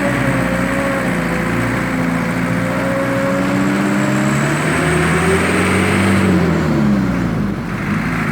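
Engine running through an aftermarket exhaust (knalpot) under test, a steady note at first, then revving up and back down about five to seven seconds in.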